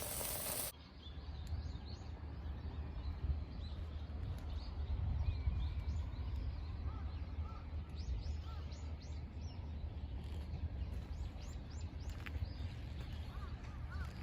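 Outdoor ambience of small birds calling with many short, quick chirps, over a steady low rumble. A few lower calls join near the end.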